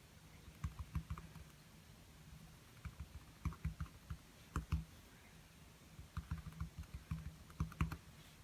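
Light tapping from painting a small acrylic canvas: quick, irregular clusters of soft taps, several to a second, with short pauses between the clusters.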